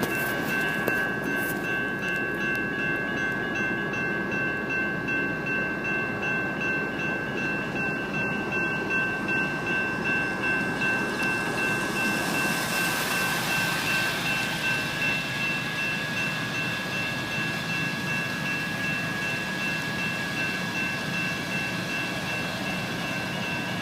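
Two General Signals electronic railroad crossing bells ring steadily at the grade crossing, pulsing rhythmically in two high tones. A BNSF freight train passes under the bells, its rumble and wheel noise swelling about ten seconds in.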